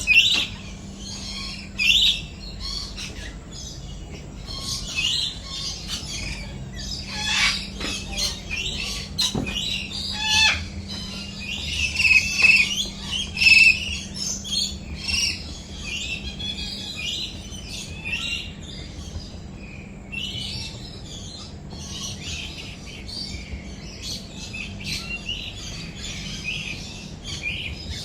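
Many birds chirping and calling over one another in a continuous dense chorus of short high calls, busiest around the middle, with a faint steady low hum beneath.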